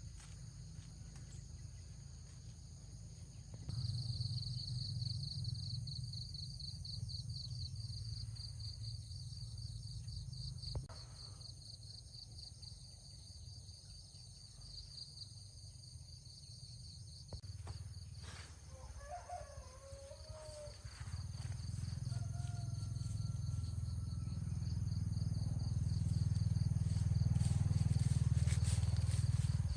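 Rural outdoor ambience: insects trilling steadily at a high pitch, with a pulsing trill from about four seconds in until past the middle. A few brief bird calls come a little after the middle, and a low rumble swells toward the end.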